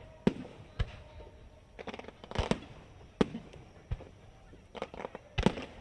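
Aerial firework shells going off in a string of sharp bangs at irregular intervals, some in quick clusters, with short echoes after them.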